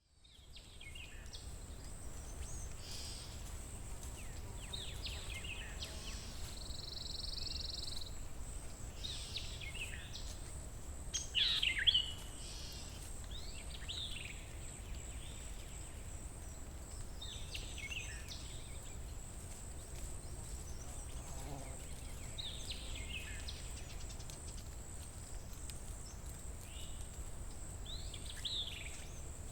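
Outdoor nature ambience of wild birds calling and singing at scattered intervals, with the loudest calls about twelve seconds in. Under the calls run a steady high-pitched hum and a low rumble.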